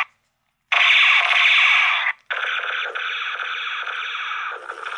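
Toy gun's electronic sound effects played through its small speaker: a harsh, buzzy blast about a second and a half long, then, after a short break, a longer, steadier buzzing tone lasting about three seconds.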